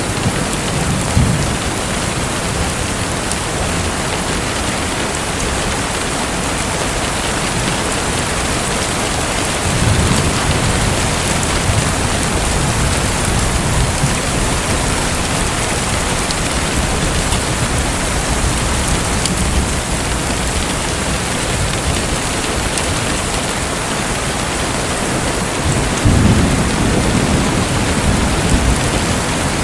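Steady hiss of splashing water, with low rumbling swells about ten seconds in and again near the end.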